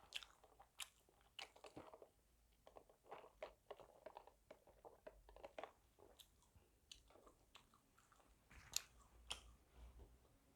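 A person chewing and biting crispy KFC fried food: an irregular run of short, sharp crunches, the loudest near the end.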